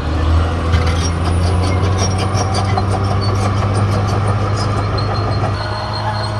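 Caterpillar D6R XL bulldozer's diesel engine running steadily, with a run of rapid metallic clicking from its steel tracks for a few seconds in the middle.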